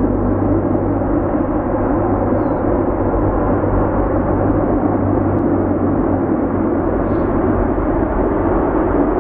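Jet airliner engines running with a loud, steady roar that holds without rising or falling.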